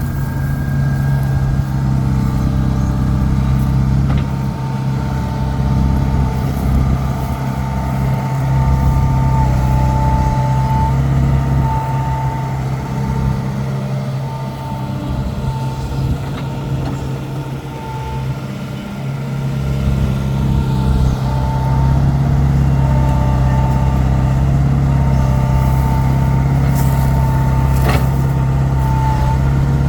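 Heavy diesel engine running steadily with a thin whine above its note. It eases off in the middle and picks up again after about 20 seconds.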